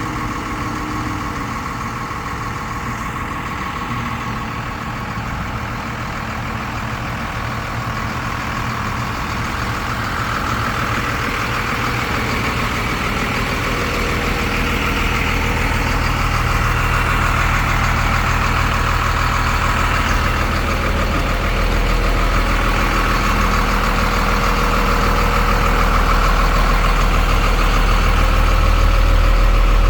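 Ford F650 truck's 5.9 Cummins diesel engine idling steadily, growing gradually louder over the span.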